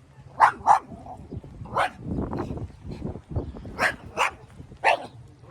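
A small dog barking: about six sharp barks, several in quick pairs.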